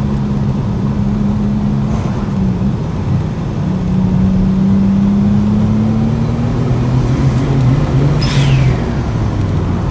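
Turbocharged V6 engine of a Mazda MX-3 pulling under load. The engine note climbs slowly from about three and a half seconds in, then a short hiss comes near the end as the revs drop.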